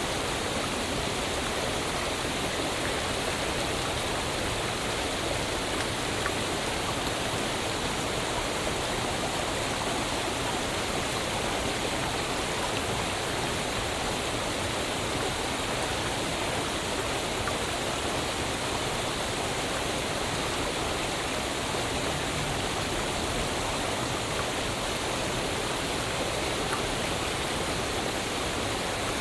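Waterfall: a steady, even noise of falling water that stays the same throughout.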